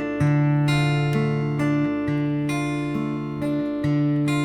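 Acoustic guitar strumming chords in an instrumental break of a song, with the bass note changing a couple of times.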